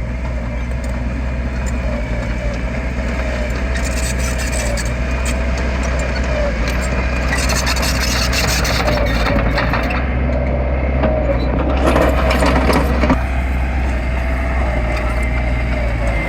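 Heavy diesel earthmoving machinery running steadily under load, with a wavering whine over the engine drone. Louder stretches of rough, clattering noise come in about halfway through and again a few seconds later.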